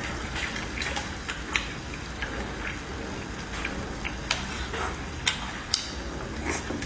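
Fatty beef brisket grilling for Qiqihar barbecue, the fat spitting in irregular sharp pops and clicks over a faint steady sizzle.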